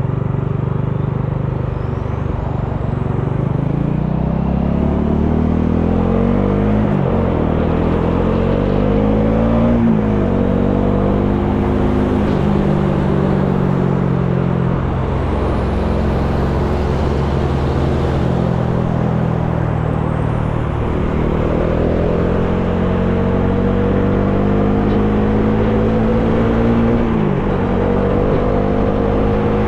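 Bajaj Dominar 400's single-cylinder engine under way with wind rushing past. The revs climb and drop sharply at upshifts about a quarter and a third of the way in and again near the end, holding steady in between.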